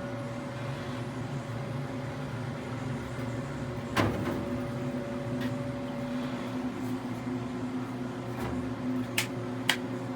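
A steady machine hum with several held tones, broken by one sharp knock about four seconds in and two sharp clicks near the end.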